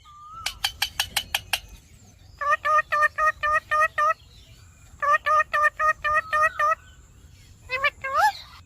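Lovebird chirping. A few quick sharp notes come first, then two rapid trains of repeated shrill chirps at about seven a second, each lasting under two seconds. Near the end there are a few more chirps and a rising whistle.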